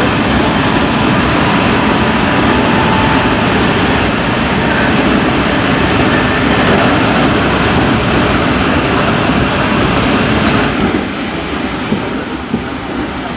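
Tokaido Line local electric train running through a tunnel, heard from on board: a loud, steady rumble of wheels and rail. About eleven seconds in, the noise drops off as the train comes out into the open, and a few sharp knocks follow.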